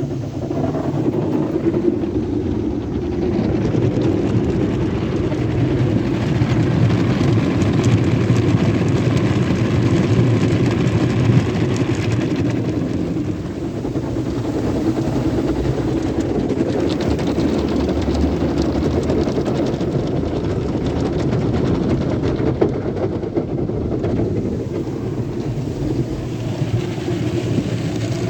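Sonny's car wash tunnel machinery running: a steady mechanical din with a low hum under a broad hiss, swelling and easing slightly over the stretch.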